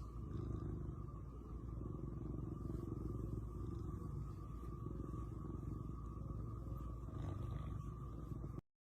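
Serval purring: a steady, low, rapidly pulsing rumble that cuts off abruptly near the end.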